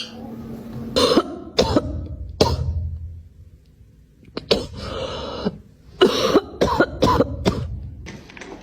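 Repeated short, sharp coughs in three bouts: several in the first couple of seconds, a couple near the middle, and a quick run near the end.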